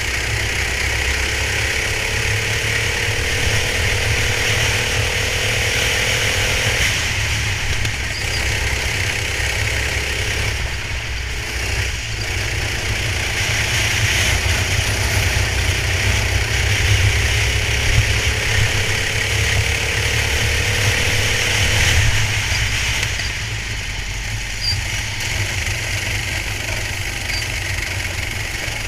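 Onboard sound of a racing kart's engine under power, its pitch rising steadily for several seconds and then dropping off suddenly as the throttle is lifted, twice, over a heavy low rumble and a steady hiss.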